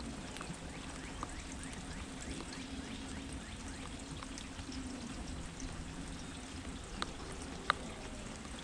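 Steady rain falling, with scattered drops tapping and two sharper drip hits near the end.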